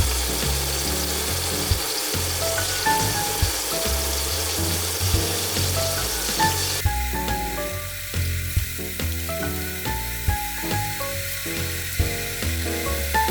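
Food sizzling as it fries in a pan, under background music with a melodic line and bass. The sizzle drops away suddenly about seven seconds in, and a few sharp clicks are heard throughout.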